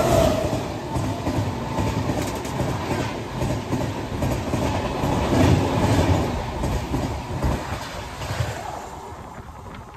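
Shatabdi Express passenger train passing close alongside on the next track: a steady rush and rumble of its coaches with wheels clacking over the rail joints, dying away near the end as the last coach goes by.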